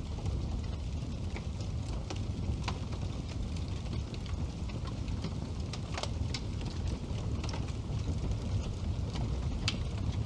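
Wood fire burning in a fireplace: a steady low rumble of the flames with irregular sharp crackles and pops, the loudest about six seconds in and again near the end.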